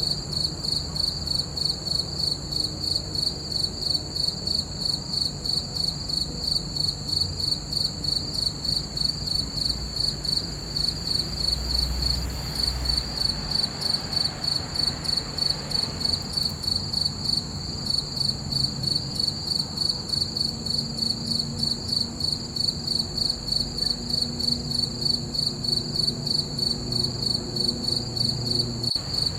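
Crickets chirping in a steady, even rhythm: a high-pitched pulsing trill repeating several times a second.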